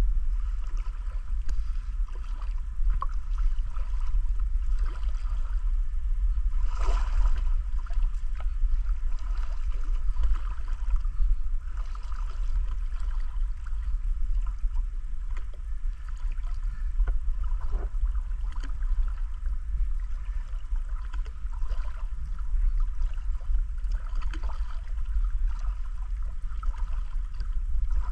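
River water flowing and gurgling over a steady low rumble, with scattered small splashes or clicks, one a little louder about seven seconds in.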